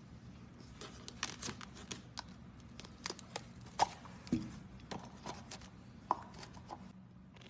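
Slime being squeezed and stretched by hand, giving irregular sticky clicks and small air-bubble pops, some with a short squelchy ring, over a steady low hum.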